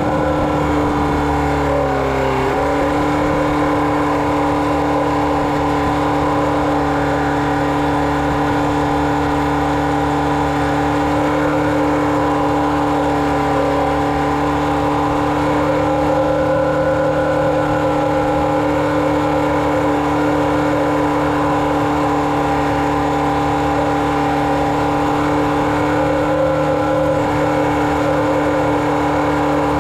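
Engine of a chicken-litter spreading rig running steadily under load. Its pitch dips briefly about two seconds in, then holds steady.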